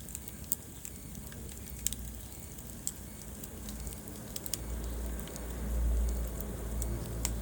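Wood fire in a fireplace crackling, with sharp pops every second or so over a low rumble that swells about two-thirds of the way through.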